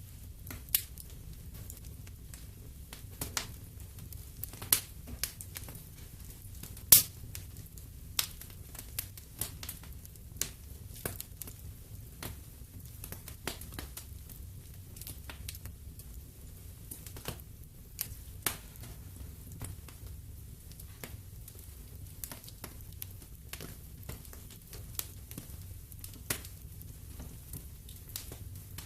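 Wood fire in a fireplace crackling, with irregular sharp pops over a low, steady rumble of the flames; the loudest pop comes about seven seconds in.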